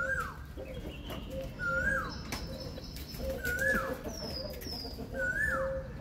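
A bird calling over and over, a short call about every two seconds that rises briefly and then drops sharply in pitch, over a steadier lower note. Fainter, higher falling whistles come in between.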